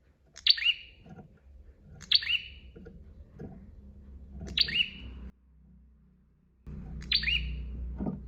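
Prenjak (prinia) calling, four sharp, high chirps about two seconds apart, each ending in a quick downward-curving note.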